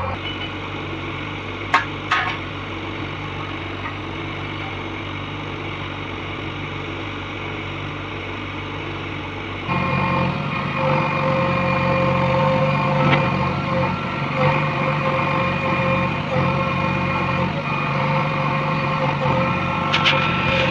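Backhoe loader's diesel engine running steadily, with two sharp clicks about two seconds in. About halfway through it turns louder and deeper and holds there.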